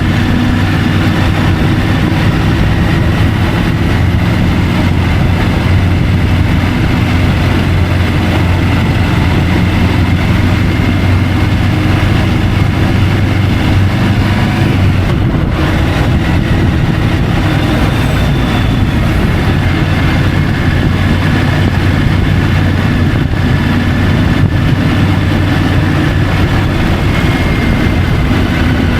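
Triumph Tiger 850 Sport's three-cylinder engine running at a steady pace while riding, under a constant rushing noise.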